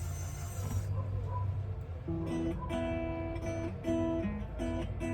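Acoustic guitar strumming chords begins about two seconds in, the instrumental opening of a song, over a steady low hum. A short hiss comes just at the start.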